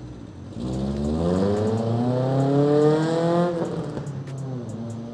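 A Honda Civic accelerates past, its engine note climbing in pitch for about three seconds, then dropping away into a lower steady drone.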